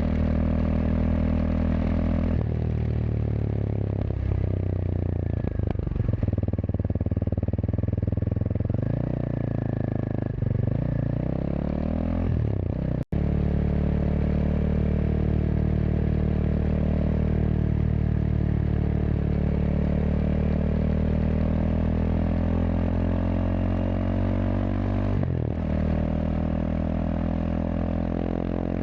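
Kawasaki KLX230SM's air-cooled single-cylinder engine running through a K-Factory FRC slip-on silencer while riding. The exhaust note rises and drops with gear changes in the first half, cuts out for an instant a little before halfway, then holds a steady cruising pitch with slow rises and falls.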